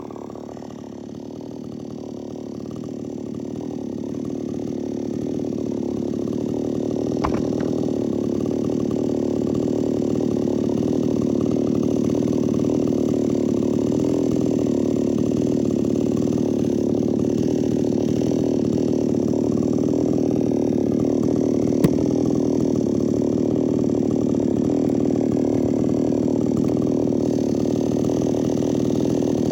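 XtremepowerUS 6200 two-stroke gasoline chainsaw running steadily without revving. It grows louder over the first ten seconds or so, and two sharp clicks come partway through.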